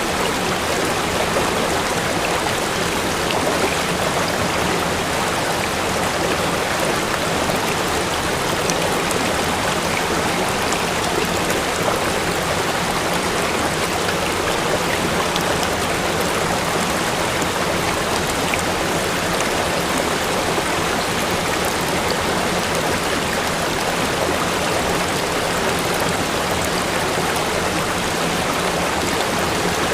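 Water pouring steadily over a waterfall: a loud, even rush with no change.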